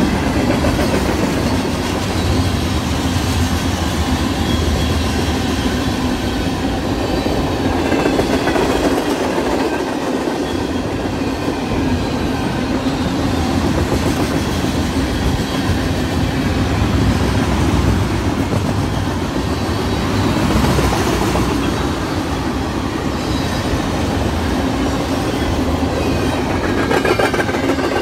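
Railroad cars rolling past with a steady rumble of wheels on rail and clickety-clack over the rail joints, with faint wheel squeal near the start and again near the end.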